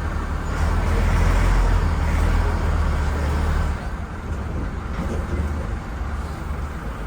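Volvo B10M bus's diesel engine running with a deep, heavy rumble that drops off noticeably a little under four seconds in.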